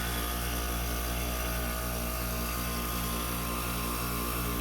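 Rotary compressor of a 1996 Whirlpool window air conditioner running with a steady hum and a faint even pulse, healthy with hardly any chatter. The fan is switched off, so the compressor is running without airflow and its head pressure is climbing.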